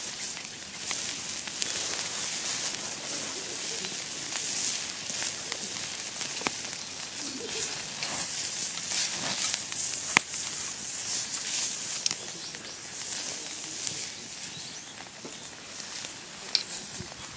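Beef skirt steak sizzling on a thick steel teppan griddle over a wood fire: a steady hiss with occasional sharp pops and crackles.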